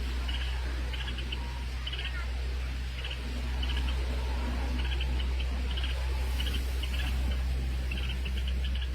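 A bird chirping over and over in short, high calls, roughly one to two a second, over a steady low hum.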